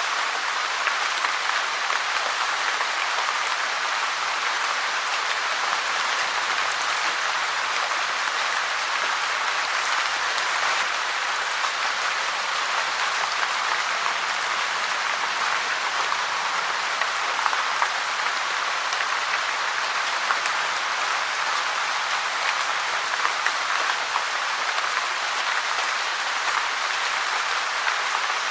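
Steady rain: a dense, even hiss of countless drops with fine patters, unchanging throughout.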